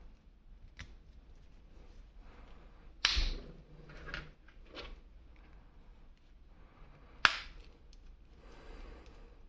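Hands handling a plastic action figure and its packaging: scattered small clicks and light rustling, with two sharp plastic clacks, one about three seconds in and a sharper one about seven seconds in.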